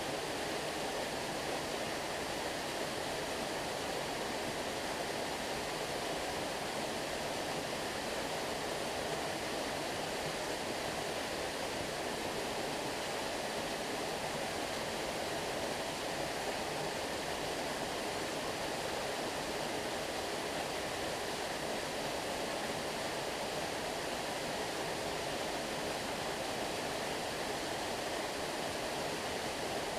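Flowing stream water making a steady, unbroken rush.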